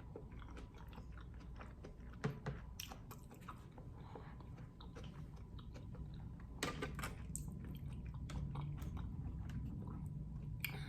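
Close-miked chewing and biting of food, with scattered short wet clicks and a busier run of them about two-thirds of the way through, over a faint steady low hum.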